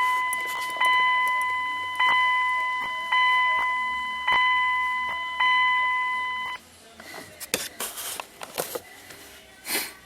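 Dodge Ram instrument cluster warning chime sounding after the ignition key is cycled to on: a steady tone restruck about once a second, six times, each strike fading, cutting off about six and a half seconds in. A few clicks and knocks follow.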